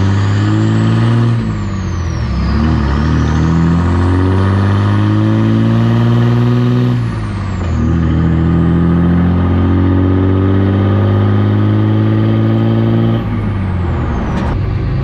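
A 2006 Ram pickup's 5.9 L Cummins inline-six diesel accelerating through the gears. The whistle of its Stealth 64 drop-in turbo climbs as the turbo spools up and falls away at each gear change: about a second in, about seven seconds in, and near the end.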